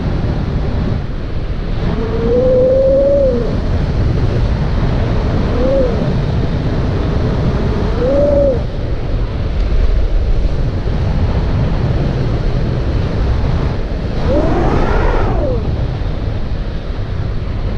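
Wind rumbling across the microphone, with four short tones that rise and fall in pitch, about two, six, eight and fifteen seconds in.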